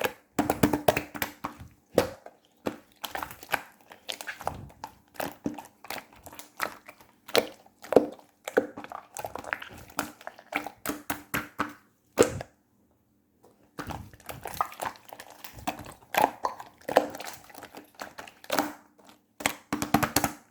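Slime being squeezed and poked by hand: a dense, irregular run of sticky clicks and crackles that pauses briefly about two thirds of the way through, over a faint steady hum.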